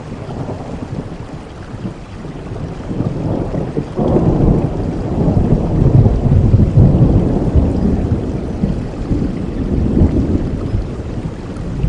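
Steady rainfall with a long, low rumble of thunder that sets in sharply about four seconds in and fades near the end.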